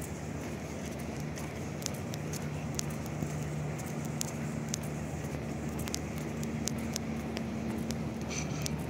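Steady low hum of a moored ferry's machinery running, with two constant low tones over a wide rumble and scattered light clicks on top.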